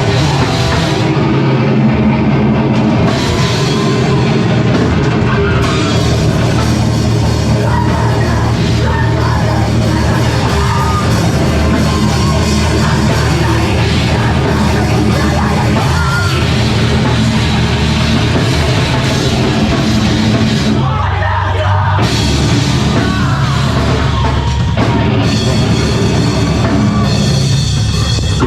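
A rock band playing heavy music live at full volume, with a drum kit driving it, dropping out briefly for a moment about two-thirds of the way through before coming back in.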